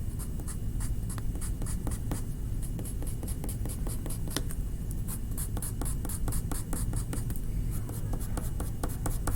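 Quick, short strokes of a dark green drawing tool on a paper art card, several a second, as small pine needles are sketched one after another.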